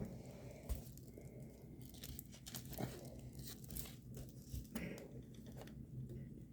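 Faint crinkling and rustling of plastic packaging as a diamond painting kit is handled, with scattered small clicks.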